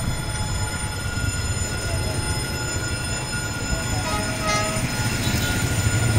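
Steady low rumble of an approaching diesel train, with two short horn toots about two thirds of the way through.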